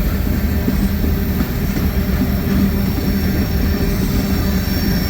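Freight cars of a long CSX manifest train rolling past with the brakes applied: a steady, loud rail rumble with faint thin squealing tones from the braking wheels.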